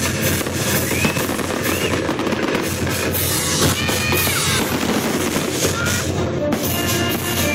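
Fireworks crackling and popping in rapid, overlapping volleys over the show's music soundtrack. Near the end the crackle thins and the music comes forward.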